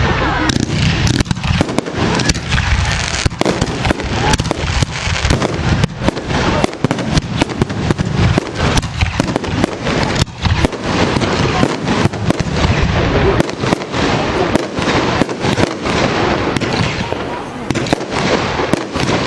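Firework display: a dense, unbroken volley of bangs and crackles from exploding shells, several every second.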